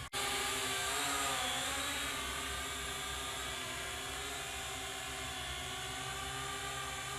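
Syma X8HG quadcopter's motors and propellers whining steadily, the pitch dipping briefly about a second in, with wind rumbling on the microphone.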